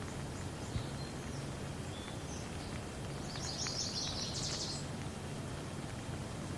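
Steady rain with scattered drops ticking, and a bird giving a quick run of high chirps about halfway through, with a few fainter chirps before it.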